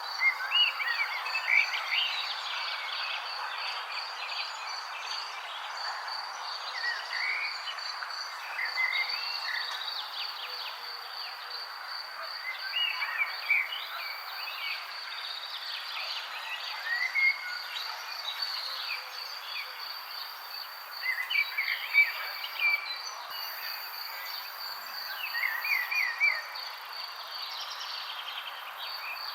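Several songbirds chirping and twittering in short, scattered phrases over a continuous high, evenly pulsing insect trill and a soft background hiss.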